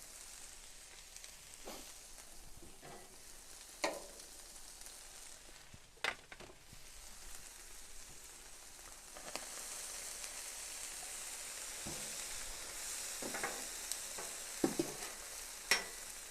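Vegetables sizzling in oil on a flat-top griddle, a steady hiss that gets louder about ten seconds in, with a few sharp clicks from a spatula on the griddle plate.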